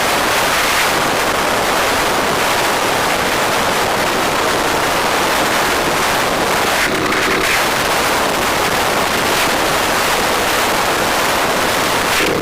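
Steady loud wind rush over the microphone of a camera riding on a moving bike, easing briefly about seven seconds in.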